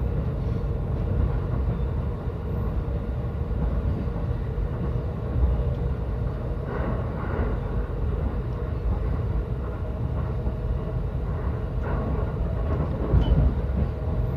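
Yokosuka Line commuter train running between stations, heard from inside the car: a steady rumble of wheels on rail with a faint steady hum and a few light knocks.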